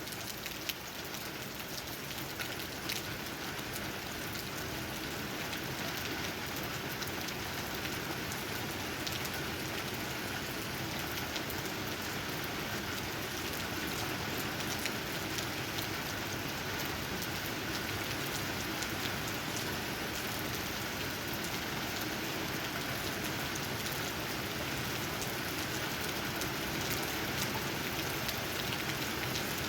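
Steady rain falling, with many drops pattering on tree leaves.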